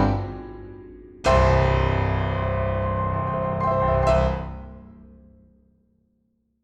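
Background piano music: a chord is struck about a second in and rings out, fading away to silence near the end.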